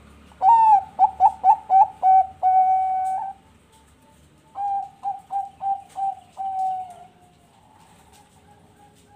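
Zebra dove (Bangkok perkutut) singing two cooing phrases. Each is a quick run of short clipped notes that ends in a longer held coo.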